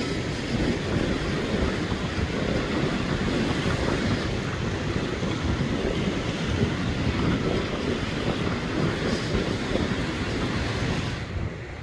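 Wind buffeting the microphone, a steady rumbling rush of noise that eases off near the end.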